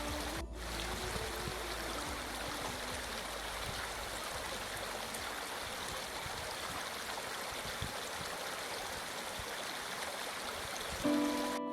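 Fast-flowing mountain river, a steady even rush of water. Faint music notes fade out in the first few seconds, and music with sustained notes comes in near the end.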